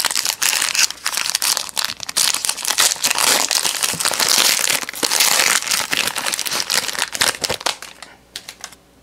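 Trading card pack wrapper crinkling and being torn open by hand, a dense run of crackles that dies down shortly before the end.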